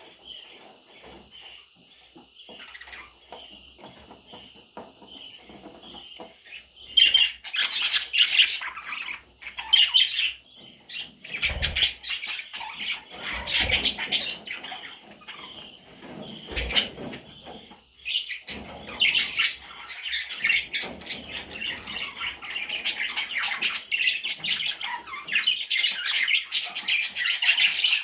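Budgerigar chicks chirping: soft chirps repeated about twice a second, then from about seven seconds in a louder, busier stretch of chirps and squawks. A few dull low bumps come in the middle.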